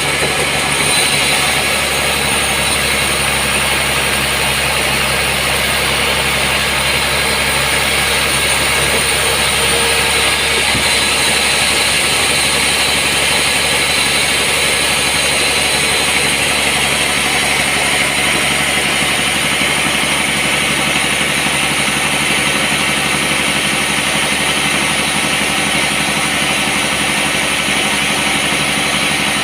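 Sawmill machinery running steadily, a loud, even noise with no breaks.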